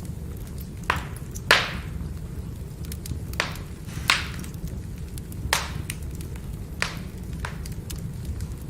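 Burning firewood: a steady low rumble under faint constant crackle, with about seven sharp pops, the loudest about a second and a half in.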